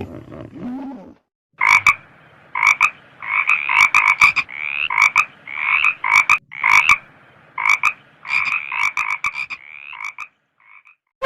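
Frogs croaking: a long series of short, pulsed calls, some in quick clusters, starting about a second and a half in and stopping shortly before the end.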